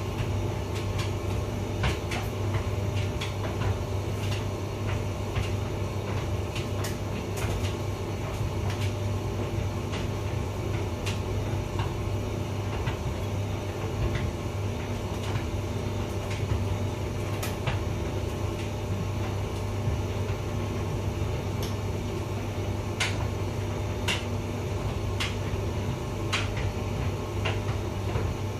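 Hotpoint vented tumble dryer running: a steady low motor-and-fan hum, with irregular light clicks and knocks from the load tumbling in the drum.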